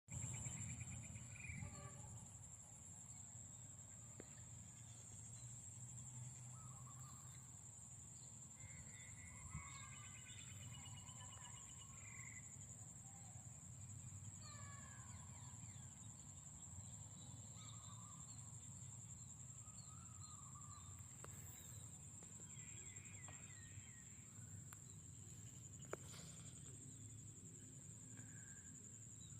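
Countryside ambience: a steady high-pitched insect drone with scattered short bird calls and chirps, faint over a low rumble.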